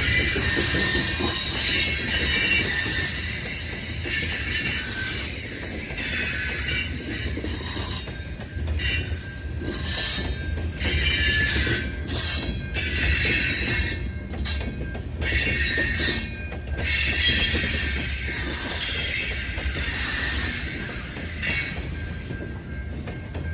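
Train rolling past, its wheels squealing against the rails over a low rumble; the squeal cuts out and comes back several times.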